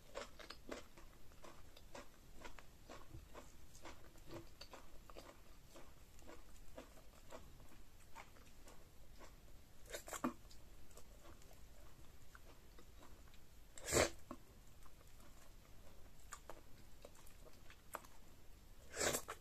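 Close-up mouth sounds of eating pounded yam fufu with slimy ogbono okra soup by hand: soft, wet chewing with many small smacks and clicks. Three louder wet smacks stand out: about halfway, a few seconds later (the loudest), and near the end.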